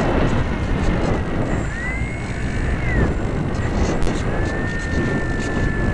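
Rough rushing airflow over a Dynam Hawk Sky RC plane's onboard camera as it glides with its motor giving no throttle response, with a faint thin whine that bends up and down in pitch and then holds steady.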